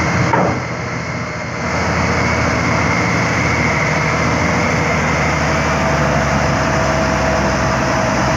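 Heavy 10-wheel truck's diesel engine running steadily while pulling a heavy load uphill. The sound briefly drops about a second in, then holds steady.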